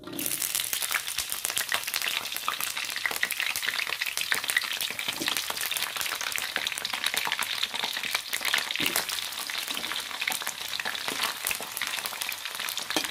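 Eggplant pieces deep-frying in hot oil in a wok: a dense, crackling sizzle that starts suddenly as the pieces go into the oil and then holds steady.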